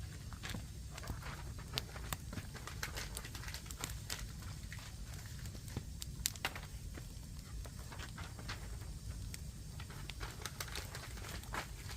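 Firewood fire burning, with irregular sharp crackles and pops over a steady low rumble; one louder pop about halfway through.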